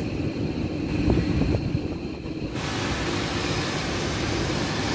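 Nissan Sentra's engine idling with its CVT transmission in park or neutral, a steady low running sound with no loud humming, the CVT pulley bearings freshly replaced. An even hiss comes in abruptly about halfway through.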